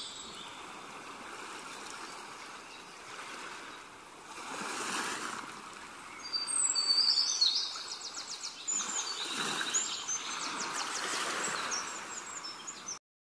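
Birds chirping and trilling over a steady outdoor background hiss, with a few swells of rushing noise. The sound cuts off suddenly near the end.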